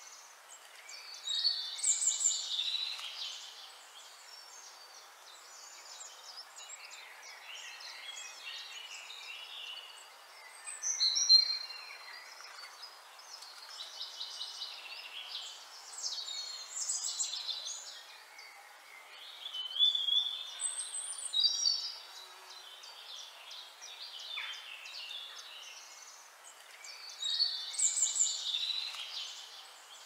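Birds chirping and whistling in several bursts of high calls over a faint steady hiss, the loudest a sharp whistle about a third of the way through.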